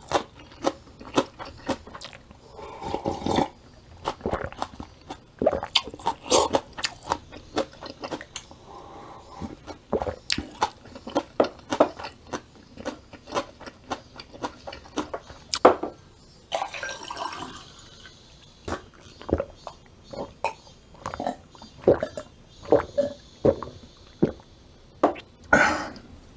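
Close-up eating sounds: irregular chewing, wet slurps and small clicks of a person eating sweet potato stem kimchi and cold bean sprout soup.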